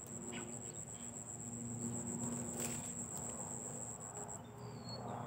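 Steady high-pitched drone of insects in the forest, which cuts off about four seconds in, with a few short gliding bird whistles near the end.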